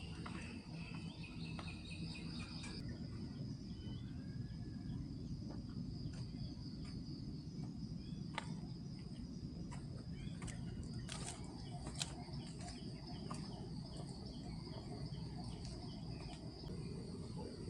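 Outdoor night-time-style ambience: insects trilling steadily and high, with a few sharp clicks and short chirps, over a steady low rumbling background noise.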